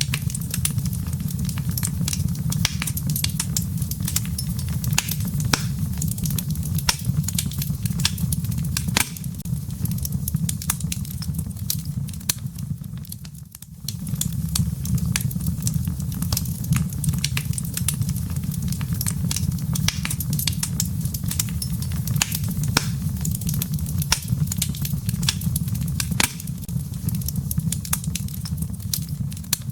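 Wood fire in a fireplace crackling, many sharp pops and snaps of the burning wood and embers over a steady low rumble. The crackling briefly dies down about halfway through, then resumes.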